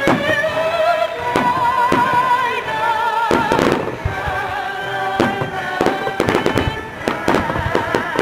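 Fireworks banging and crackling over orchestral music with a wavering, sustained melody line; the bangs come thickest about three and a half seconds in and again in the last couple of seconds.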